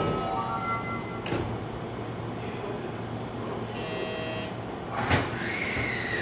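Electric commuter train at a station platform: motor tones, a click about a second in, a short sharp burst of air about five seconds in, then a whine that falls steadily in pitch as the train slows.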